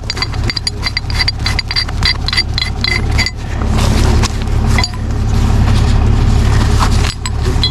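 Tow truck engine running steadily with a low rumble. In the first three seconds it is joined by a quick run of high metallic clinks, several a second, then it runs on alone.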